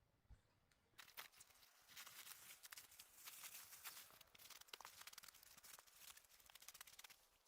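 Faint rustling and crunching, a dense run of small irregular crackles and clicks starting about a second in.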